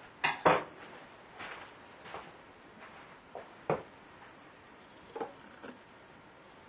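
Scattered clicks and light knocks of a laptop and small tools being handled during disassembly. The two loudest come close together right at the start; fainter ones follow at irregular intervals.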